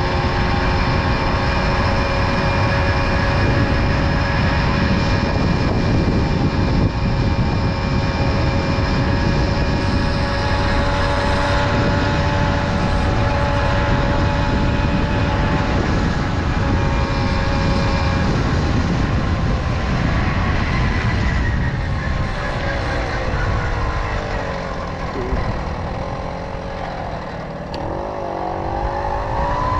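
Tomos Silver Bullet moped's small two-stroke engine running at a steady cruise, with wind rushing over the microphone. About two-thirds of the way through the engine note drops as the moped slows, then rises again near the end as it speeds back up.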